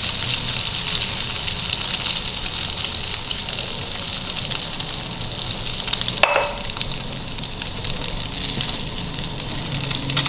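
Egg-coated sandwich sizzling in hot oil in a nonstick frying pan, a steady crackle of fine pops as the first side fries to golden. One brief louder sound a little past halfway.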